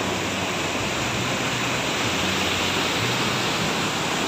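Rushing river water flowing hard over large rocks, a steady loud rush; the river is swollen and fast after heavy rain.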